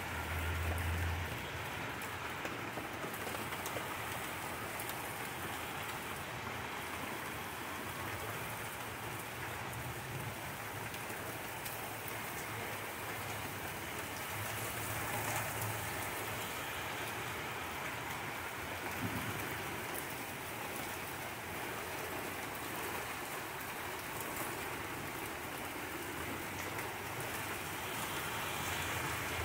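Steady rain from a summer flash rainstorm falling on a backyard garden of potted plants.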